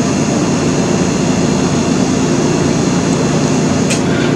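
Steady loud rushing noise with a low hum, unchanging throughout.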